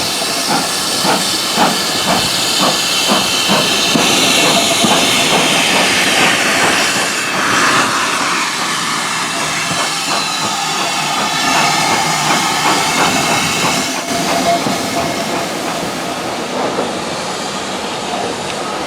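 Steam locomotive and train on the move, with a loud steady hiss of escaping steam and a regular beat of exhaust or wheel noise in the first few seconds.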